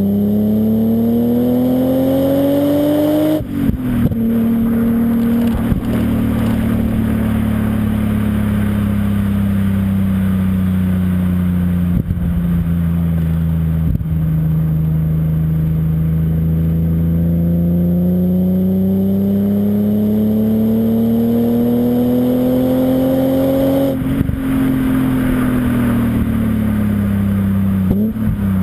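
BMW M5 E34's S38B38 straight-six on a Scorpion aftermarket exhaust, pulling under acceleration with the pitch climbing, then a gear change about three seconds in. The engine then holds a long, slowly wavering drone as it cruises and gradually builds revs, with another shift or lift-off around three-quarters of the way through and again near the end.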